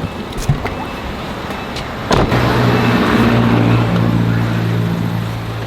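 Car driving: steady engine and road noise, with a steady low engine drone setting in about two seconds in and holding.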